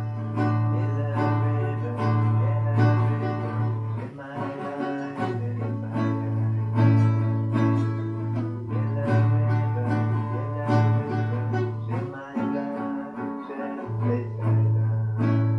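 Guitar being played, chords picked or strummed over a low bass note that rings on and breaks off briefly twice.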